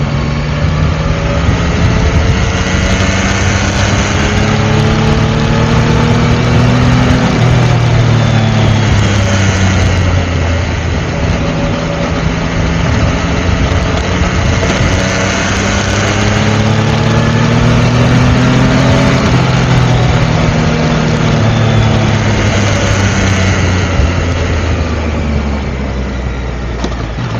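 Yamaha Tracer 900 GT's 847 cc inline three-cylinder engine running. Its pitch climbs slowly over several seconds and falls back, twice, and starts climbing again near the end.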